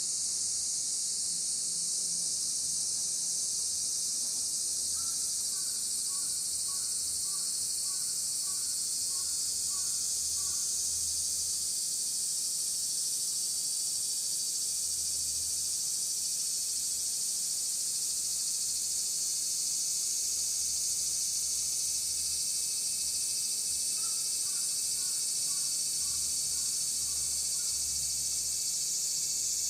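A steady, high-pitched chorus of insects droning without a break. Twice, a bird calls in a run of short repeated notes.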